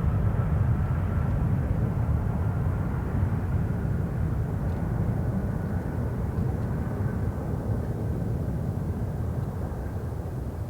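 Airbus A330-202's General Electric CF6-80E1 turbofans at takeoff power on departure, a deep rumble with a faint steady whine above it, slowly fading as the airliner moves away.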